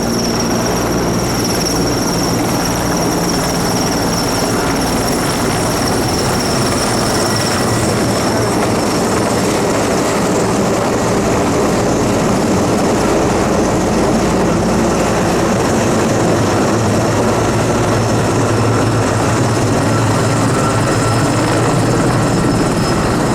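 A firefighting helicopter running loud and steady, a high whine over the rotor noise.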